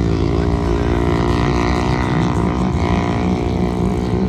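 A motor vehicle's engine running steadily at an even speed, a dense, constant-pitched rumble.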